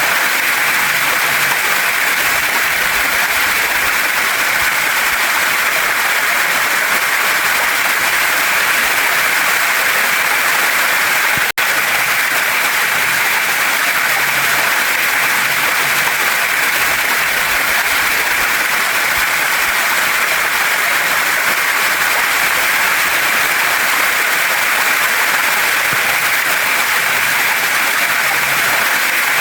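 Waterfall and stream water rushing steadily over rocks, an even hiss with no change in level, broken by a split-second dropout about twelve seconds in.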